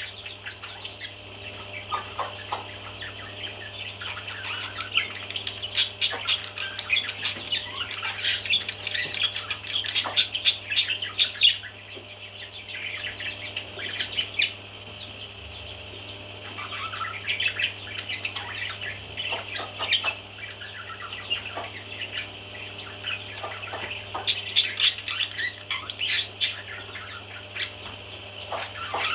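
Baby parrots chirping and squawking in dense high bursts with sharp clicks among them, over a steady low hum.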